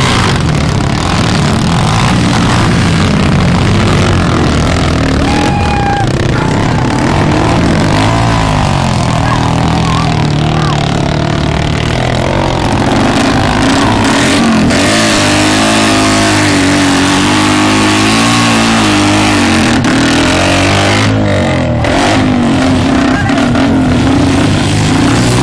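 Several motocross bike engines revving and passing, their pitch rising and falling throughout.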